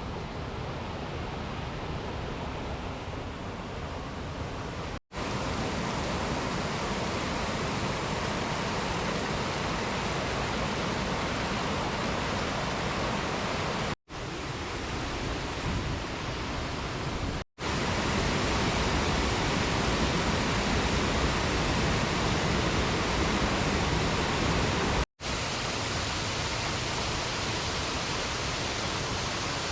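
Waterfall rushing as a steady wash of falling water, heard in several clips cut together, each cut a brief dropout.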